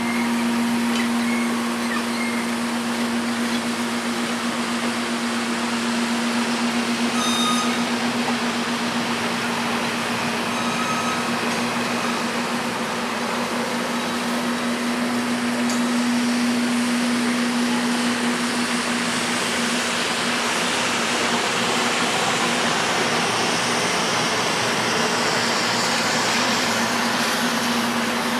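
Vintage passenger cars rolling slowly past on jointed track, over the steady drone of a diesel switcher locomotive's engine. The hiss and rumble grow louder toward the end as the locomotive comes closer.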